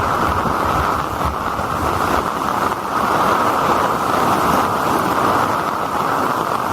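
Typhoon downpour, a steady hiss of heavy rain and rushing water, with wind buffeting the microphone in gusts.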